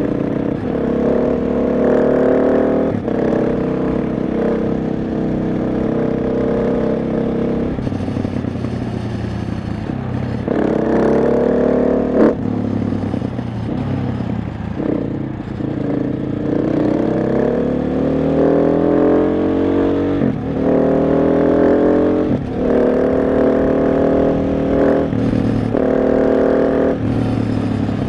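KTM 690 SMC R's single-cylinder engine under way, its revs climbing and falling again and again as the bike accelerates, shifts gear and rolls off the throttle. A single sharp click about twelve seconds in.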